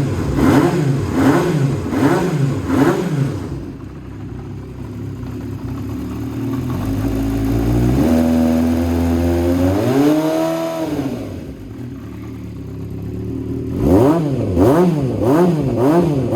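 Kawasaki GPZ400R's inline four-cylinder engine, breathing through an aftermarket exhaust with a BEET silencer, blipped quickly about four times, dropping back to idle, revved up once in a slower rise and fall about eight seconds in, then blipped quickly four more times near the end.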